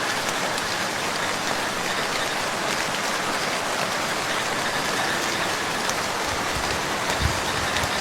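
Steady rain falling on a lake's surface: a dense, even hiss of drops with many small patters. A few short low thumps come near the end.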